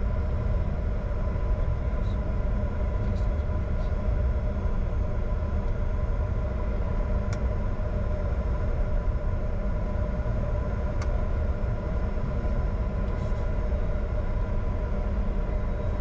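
Steady low rumble of a Bombardier Challenger 605's CF34 turbofan engines, heard inside the cockpit during taxi, with several steady whining tones over it. Two faint short clicks come about seven and eleven seconds in.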